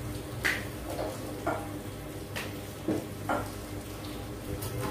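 Paratha frying in ghee on a flat griddle over a gas stove, sizzling softly, with a few short light clicks of utensils against metal.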